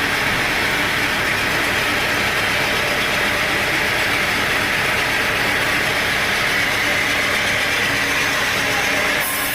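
Sawmill machinery running steadily, a loud constant mechanical noise with a strong high hiss; the sound shifts abruptly near the end.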